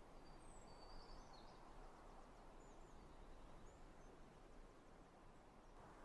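Near silence: a faint steady outdoor background hiss with a few faint, distant bird chirps, a cluster in the first second and a half and two more single chirps a little later.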